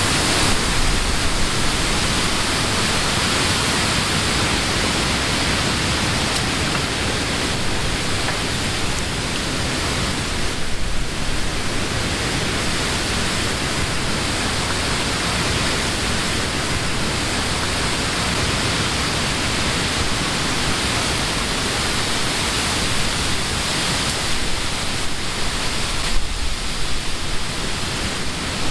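Steady summer wind blowing through leafy trees, a dense continuous rush of leaves that eases slightly for a moment about ten seconds in and again near the end.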